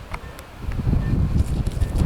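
Strong gusting wind buffeting the microphone: a rough, fluttering low rumble that gets louder about two-thirds of a second in.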